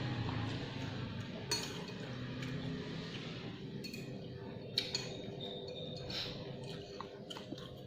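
Cutlery clinking against a bowl while eating bakso, a handful of light separate clinks over a steady low background hum.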